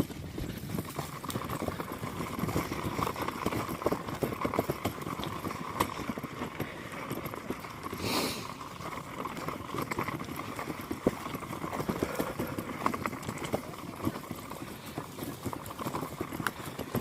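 Footsteps of people walking along a woodland trail, an irregular patter of steps, with a brief louder rustle about eight seconds in and a faint steady high-pitched drone behind.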